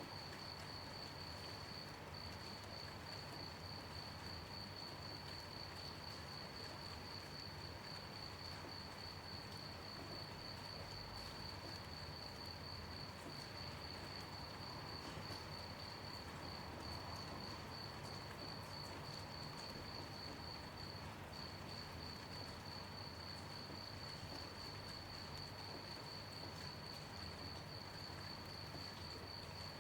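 Crickets chirping in a steady, rapid, high-pitched trill that only briefly falters, over a soft, even hiss of gentle rain.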